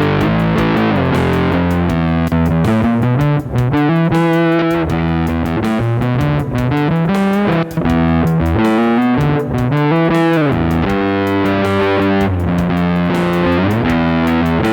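Electric guitar played through a Big Muff-style fuzz pedal: sustained distorted notes and chords with bends and slides, played continuously with a couple of brief gaps.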